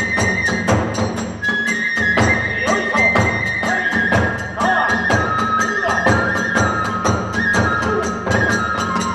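Hiroshima kagura ensemble playing: a bamboo flute holds and steps between high notes over a fast, steady beat of taiko drum and small hand cymbals.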